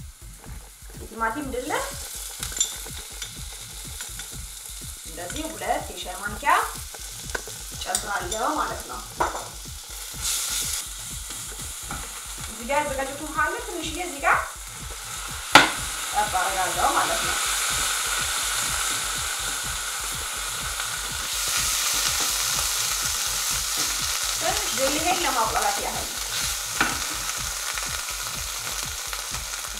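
Onion, garlic and berbere pepper paste sizzling in a little oil in a nonstick frying pan while a wooden spoon stirs and scrapes it at intervals. The sizzle gets louder about two-thirds of the way through, and there is one sharp tap near the middle.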